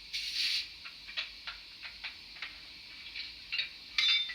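Coupling sound from the DCC sound decoder of a Fleischmann N-gauge DR class 44 steam locomotive, played through the model's small speaker. It starts with a short hiss, followed by a run of light metallic clicks and clanks, and ends near the end with a sharper clank that rings briefly.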